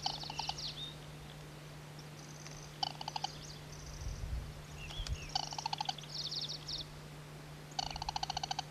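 Band-bellied crake calling: short, fast rattling trills repeated about four times, with high chirping phrases between them, over a steady low hum.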